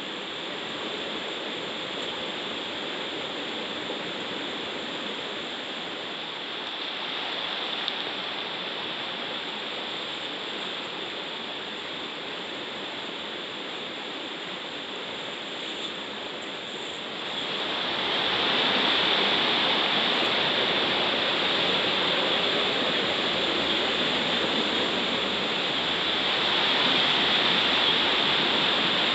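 River water rushing over rocks, a steady noise that gets louder a little past halfway through.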